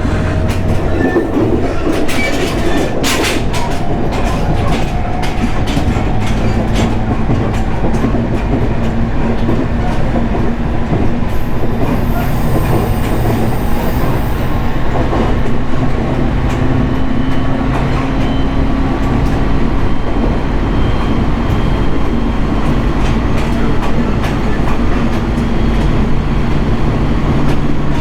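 Interior running noise of a JR East 701 series 1000 subseries electric train under way: a steady rumble of wheels on rail with a few sharp rail-joint clicks, and a faint motor whine that shifts in pitch.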